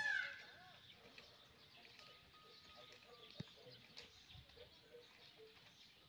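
A loud pitched bird call, rich in overtones, dies away within the first half second. Faint outdoor background follows, with scattered soft ticks and one sharp click about three and a half seconds in.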